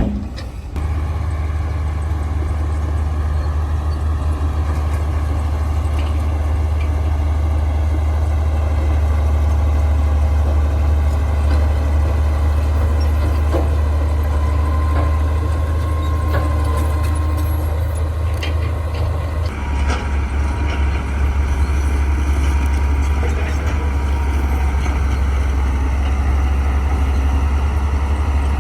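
Crawler bulldozer's diesel engine running steadily with a deep drone, its note shifting about two-thirds of the way through, with a faint whine over it in the second half.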